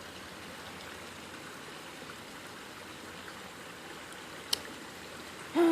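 Creek water running steadily, with one short click about four and a half seconds in.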